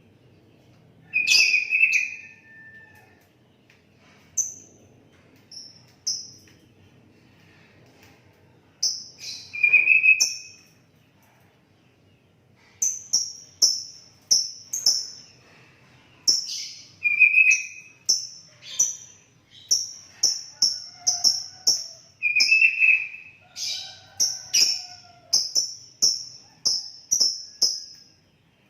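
Sooty-headed bulbul (kutilang) singing: short, loud whistled notes, a few spaced apart at first, then from about halfway a quick run of repeated notes, about two to three a second.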